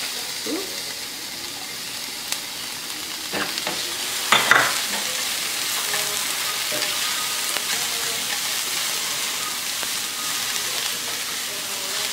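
Chopped onion sizzling in hot oil with garlic and ginger in a stainless steel pan as it is tipped in and stirred with a silicone spoon, a steady hiss that jumps up as the onion goes in. A brief loud knock about four seconds in.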